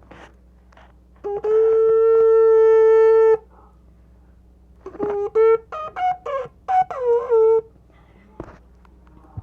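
A shofar (ram's-horn trumpet) blown: one long steady blast of about two seconds, then about six short, broken blasts whose pitch jumps up and bends back down.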